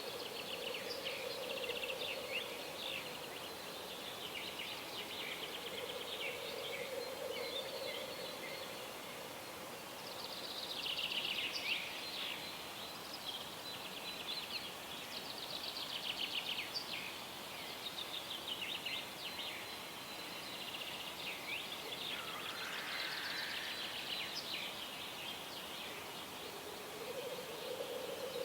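Several songbirds singing at once, their songs overlapping in a continuous pre-sunrise dawn chorus. A low, drawn-out call sounds under the birdsong three times: near the start, about a third of the way in, and near the end.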